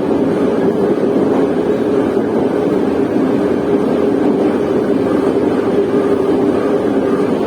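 Moscow metro train running between stations, heard from inside the carriage: a steady rumble of wheels on rails with a constant low hum.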